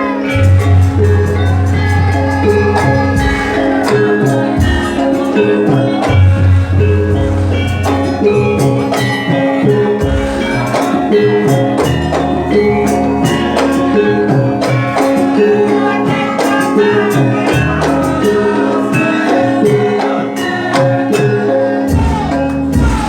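Javanese gamelan music for a jathilan dance: metallophones ring out melody lines over a steady percussive beat, with a deep sustained bass note that sounds in recurring stretches.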